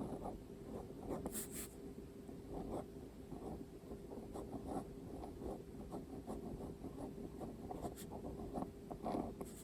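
Handwriting on paper: a steady run of short, irregular scratching pen strokes, with a few brief sharper scrapes, over a faint steady hum.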